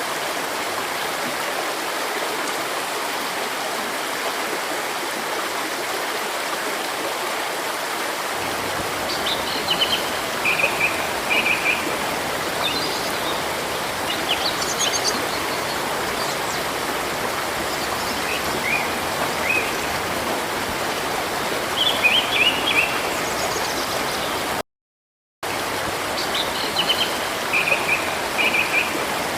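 Steady rushing of a river or stream, with birds chirping in short repeated phrases from about nine seconds in. The whole sound drops out for under a second shortly before the end.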